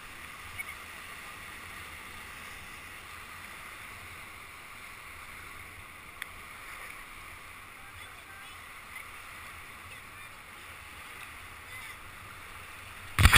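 Steady rush of river water around a whitewater raft, with a couple of faint knocks. A sudden loud burst comes right at the end.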